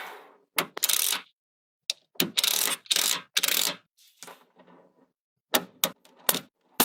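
Small magnets clicking and clattering against each other as they are snapped together: a run of sharp clicks and short rattling scrapes, with silences between them.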